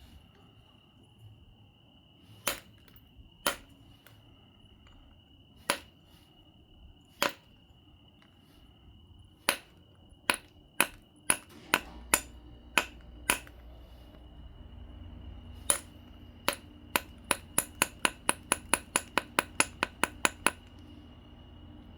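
Knapping on an obsidian biface: sharp, ringing clicks of tool on glassy stone, scattered at first, then a quick run of about four a second near the end. A steady faint high tone runs underneath.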